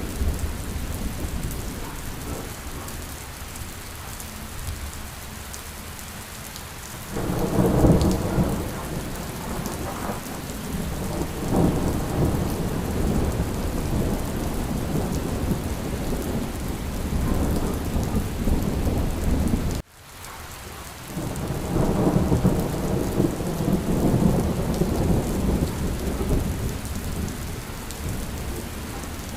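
Steady rain with low rolling thunder rumbling in about a quarter of the way through and again later. The sound cuts out sharply for a moment about two-thirds of the way in, then the rumble builds back.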